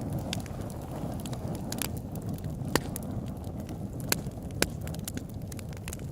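Campfire crackling: irregular sharp pops and snaps of burning wood over a steady low rumble of flames, with a few louder pops in the middle.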